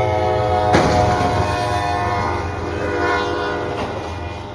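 A train's horn sounding a long, steady chord, with a sudden loud hit about a second in; the horn then fades away.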